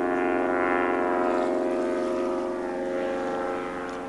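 Light propeller aircraft's engine running with a steady drone, fading slightly toward the end.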